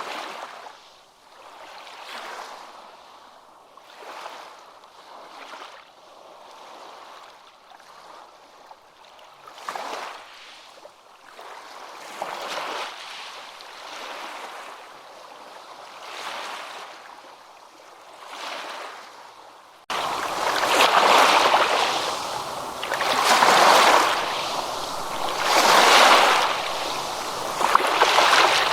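Ocean waves washing in, the surf swelling and fading every couple of seconds. About two-thirds of the way through the sound jumps abruptly much louder and fuller.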